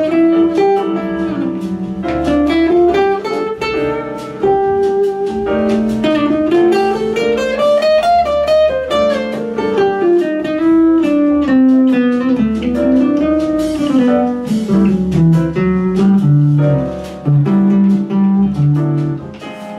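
Improvised guitar playing: a melody of plucked single notes over a low bass, climbing to a high point near the middle and working back down.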